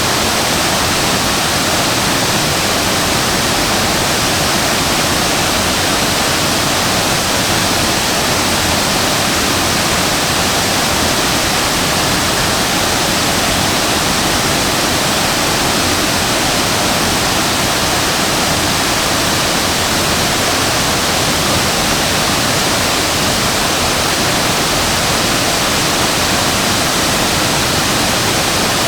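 Waterfall crashing down steadily: a dense, unbroken rush of falling water.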